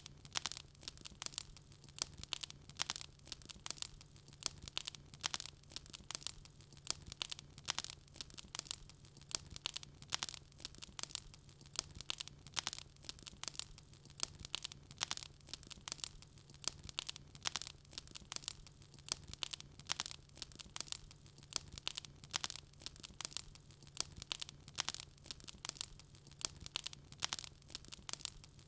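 Wood fire crackling, with dense irregular pops and snaps several times a second and a faint steady low hum underneath.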